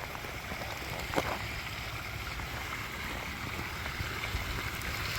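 Steady rush of water from a backyard koi pond's waterfall, with a small tap about a second in.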